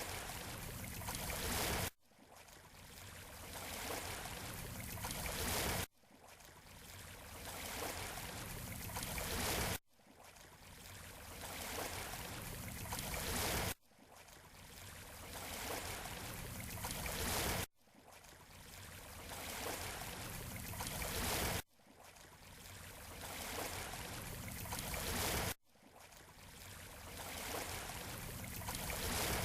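Shoreline surf and water wash from a short recording looped over and over: about every four seconds the sound swells up, then cuts off abruptly and starts again.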